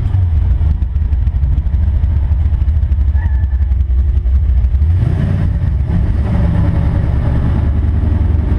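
Engine and exhaust of a Chevy Nova heard from inside the cabin, running at low speed with a deep, uneven low note; the note grows fuller about five seconds in as the throttle opens a little.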